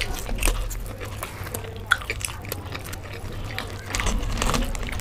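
People biting and chewing fried samosas close to the microphone, the crisp pastry crackling in many short, irregular crunches.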